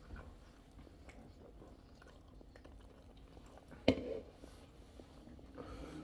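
Faint chewing and mouth sounds of people eating shrimp, with one sharp click a little before four seconds in.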